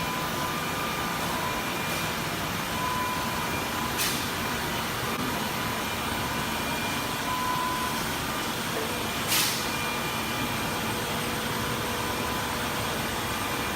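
Steady machine running noise with faint whining tones, broken by two short hisses about four and nine seconds in.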